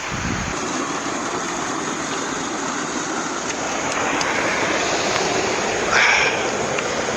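Small mountain creek flowing, a steady rushing and babbling of water. A brief sharper sound cuts in about six seconds in.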